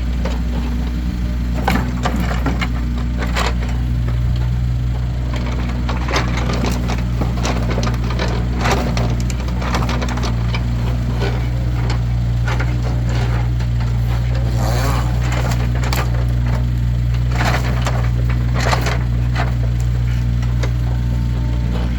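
Split firewood logs being stacked, knocking and clattering against one another in irregular clunks. A steady low engine hum runs underneath.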